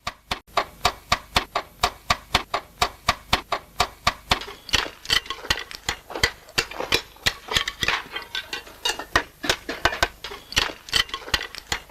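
Slater's hammer striking slate in a quick, even series of sharp taps, about three to four a second.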